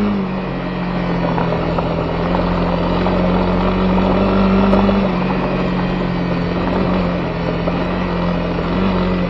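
Honda CB250R single-cylinder engine running at a steady cruise, its pitch dipping just at the start and then holding fairly even, with tyre noise from the gravel dirt road underneath.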